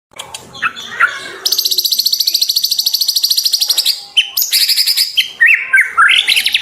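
White-rumped shama singing: a few short chips, then a fast, high, rattling trill lasting about two and a half seconds, then a run of varied whistled phrases that rise and fall.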